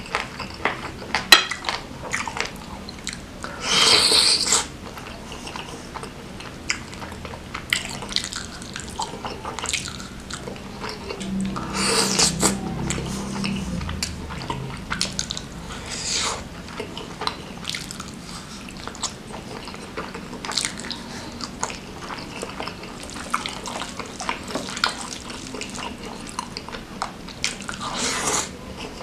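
Close-up eating sounds: wet chewing and mouth smacking on chicken satay and beef curry with rice, with many small clicks throughout. Three longer, louder wet sounds stand out, about four seconds in, around twelve seconds and near the end.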